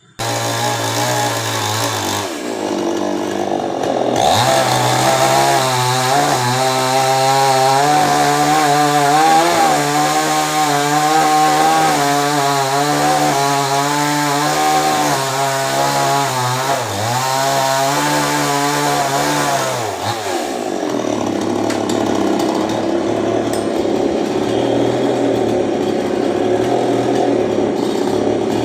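Chainsaw cutting, its engine held at high revs with the pitch wavering as it bogs under load in the wood. About twenty seconds in the revs drop away, and it keeps running at a lower, rougher note.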